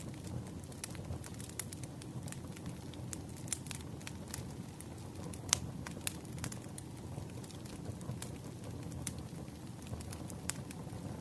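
Campfire crackling: irregular sharp pops and snaps over a low steady rumble of burning wood, with one louder pop about five and a half seconds in.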